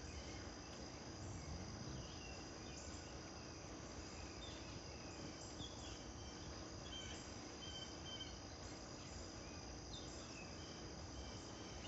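Insects trilling steadily in a high, constant drone, with a few faint, short bird chirps scattered through.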